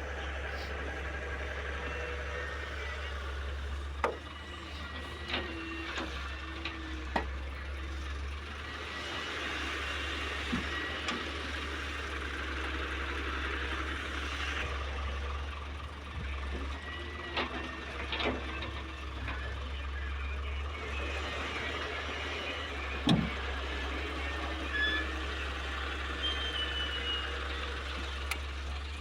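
Heavy diesel machinery, an excavator at work with a dump truck, running steadily with a low hum. Sharp knocks and clanks come at scattered moments, the loudest about four seconds in and again near twenty-three seconds.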